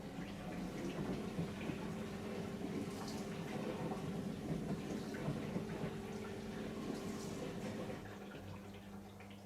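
Bosch compact dishwasher running: water swishing inside the machine over a steady pump hum, which cuts off about eight seconds in.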